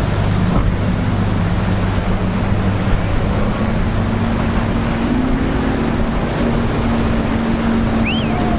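Boat engines running as boats pass through the inlet, a steady hum whose pitch shifts about three seconds in, over a constant wash of wind and surf. A short high chirp sounds near the end.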